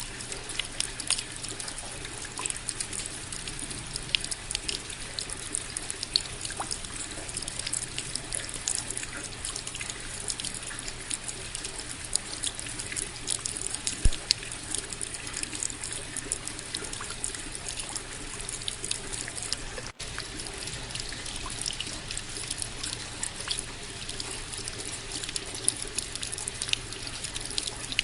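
Steady rain: an even hiss with many individual drops striking close by, with a momentary break about twenty seconds in.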